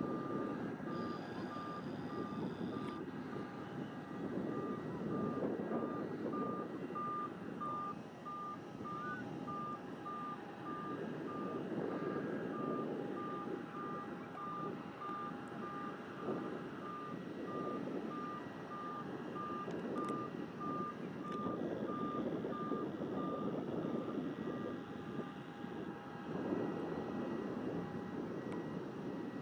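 Reversing alarm of a heavy vehicle such as a dump truck, beeping evenly at one pitch about one and a half times a second, stopping about 25 seconds in. Wind rumbles on the microphone throughout.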